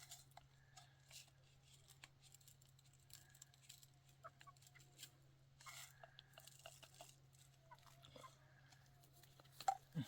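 Near silence under a steady low hum, with scattered faint clicks and small handling sounds and one sharper click near the end.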